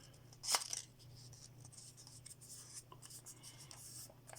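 Sheet of origami paper rustling and crinkling softly as it is pulled and shaped by hand, with one louder rustle about half a second in.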